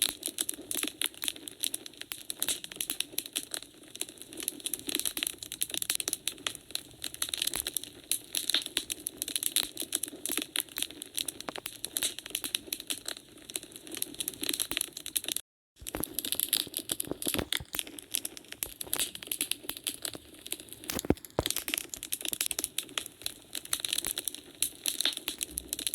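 Wood fire crackling in a fireplace, with a constant scatter of small snaps and pops and one sharper pop near the end. The sound cuts out for a split second about halfway through.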